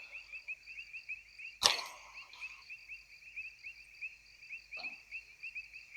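Evening chorus of calling animals: a steady, high-pitched pulsing trill, about seven pulses a second. A single sharp click comes about a second and a half in.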